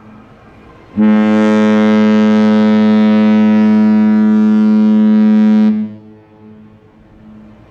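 Cruise ship Mein Schiff 7's horn sounding one long farewell blast on leaving port: a steady low tone with many overtones that starts about a second in, holds for nearly five seconds and cuts off, its echo lingering after.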